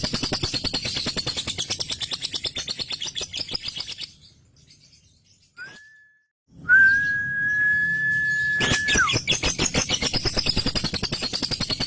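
Male lovebird singing its long 'ngekek' chatter: a fast, rattling run of repeated notes. It breaks off for a couple of seconds, a long steady whistled note is held for about two seconds and drops at its end, and then the rapid chatter resumes.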